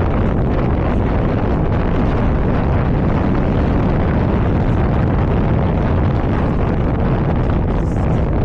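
Strong wind buffeting the camera microphone: a loud, steady low rumble with no let-up, on an exposed hillside on a very windy day.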